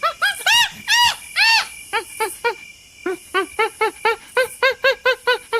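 An animal calling in a fast series of short yelps, each rising and falling in pitch, about six or seven a second. Three longer, louder calls come about half a second, one second and one and a half seconds in, and there is a brief pause about three seconds in before the fast yelping resumes.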